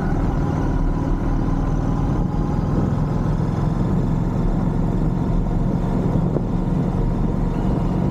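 Royal Enfield Shotgun 650's 648 cc parallel-twin engine running at a steady, low pitch.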